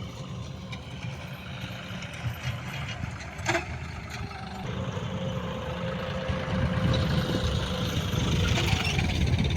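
John Deere tractor's diesel engine running steadily, growing louder about two-thirds of the way through, with a single sharp click about a third of the way in.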